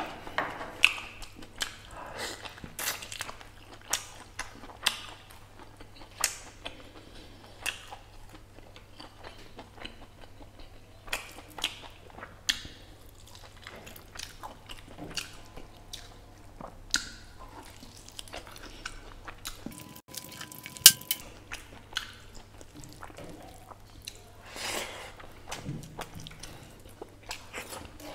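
Close-miked chewing and wet mouth smacks of a man eating curried mutton shank meat off the bone by hand, with many short sharp clicks throughout and one louder smack about two-thirds of the way through.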